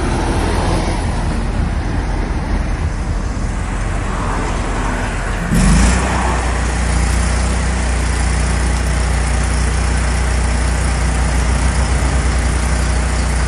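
A motor vehicle running along the road: steady engine and road drone. A little over halfway through there is a sudden brief jolt, and the drone then carries on louder and steadier.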